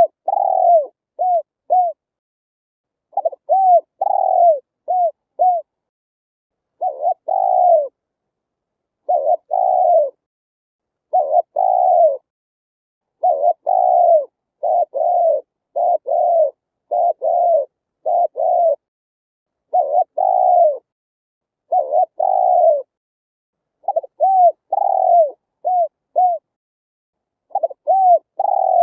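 Spotted dove cooing: short phrases of several coos, each note falling in pitch, repeated every two to three seconds.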